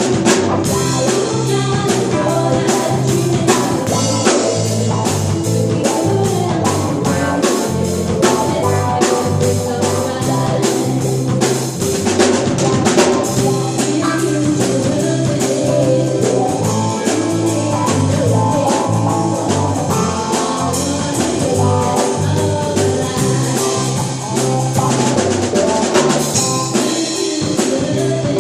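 Live band playing an instrumental passage: drum kit keeping a steady beat under bass and guitar.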